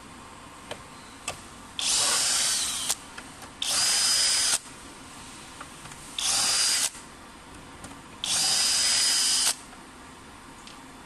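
Power drill-driver running in four short bursts of about a second each, with a high motor whine, as screws are driven or backed out during a treadmill repair. A few light clicks fall between the bursts.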